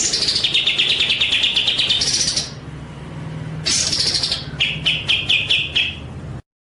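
A songbird singing loud, fast runs of rapidly repeated chattering notes. There are two phrases with a pause between them, and the song cuts off abruptly near the end.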